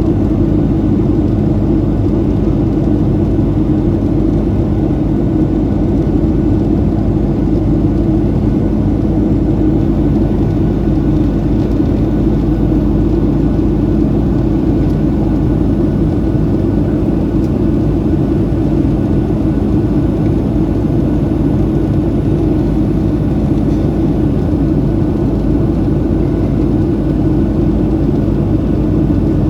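Boeing 737-700 cabin noise in flight: a steady, even drone of engine and airflow, low-pitched with a constant hum running through it.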